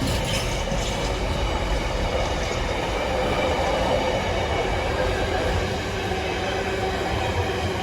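Container freight train hauled by a Class 66 diesel rolling steadily past, a continuous rumble of wheels on the rails with thin, steady ringing tones from the wheels.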